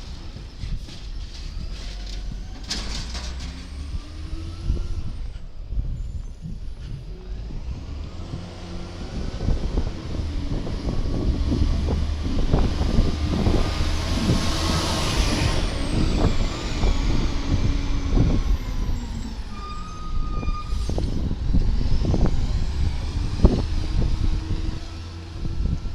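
Garbage truck's diesel engine revving up and down as it works the hydraulics, with a high whine that rises and falls, repeated clanks and knocks of the lifting gear and bins, and a burst of air hiss about fifteen seconds in.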